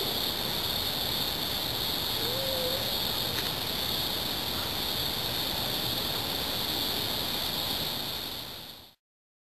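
Steady outdoor evening ambience with a constant high drone, typical of a late-summer insect chorus, and a brief faint whistle about two seconds in. The sound cuts off abruptly near the end.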